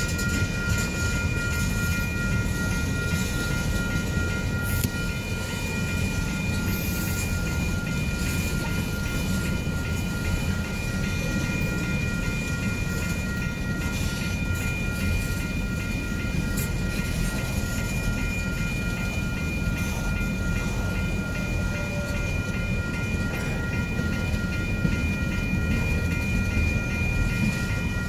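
Loaded tank cars of a freight train rolling past close by: a steady low rumble of wheels on rail. A steady high-pitched ringing tone runs through it.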